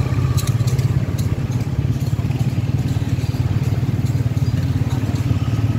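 A small motorcycle engine running steadily at low revs, a low, even engine note with no change in speed.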